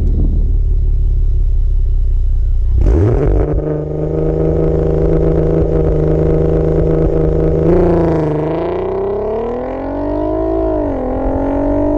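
Audi TT's swapped-in 3.6-litre VR6 through a Varex valved exhaust. It rumbles low, then revs up about three seconds in and holds at a steady pitch, as for a launch-control launch. About eight seconds in the revs dip and climb, then drop again near eleven seconds, as at an upshift, and rise once more.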